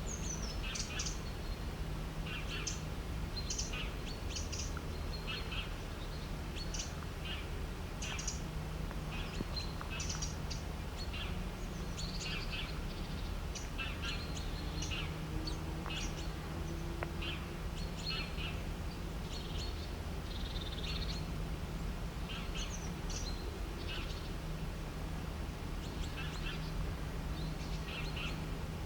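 Birds chirping: many short, high calls, often in quick clusters, over a steady low hum.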